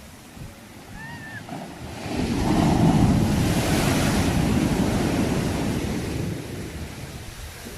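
A sea wave breaking and washing up: the surf swells to its loudest about two to three seconds in, then slowly dies away. A brief faint chirp sounds about a second in.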